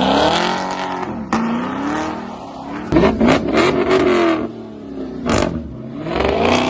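Dodge Hellcat Jailbreak's supercharged V8 revving hard in repeated bursts, the pitch climbing and falling several times, with a few sharp cracks among them.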